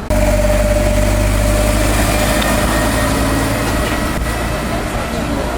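A road vehicle's engine running steadily close by, with a deep hum and a faint whine, easing off slightly toward the end.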